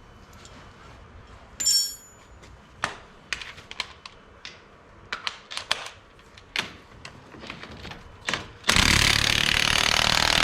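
Scattered metal clinks and knocks of tools and parts, one ringing clink about two seconds in. Near the end a power impact wrench rattles steadily for about three seconds on the UTV's axle nut.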